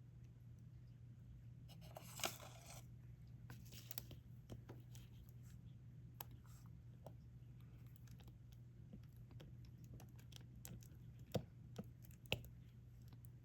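Faint small clicks and taps of a diamond-painting stylus picking up resin drills and pressing them onto the sticky canvas, with a brief rattle about two seconds in and a few sharper taps near the end, over a steady low hum.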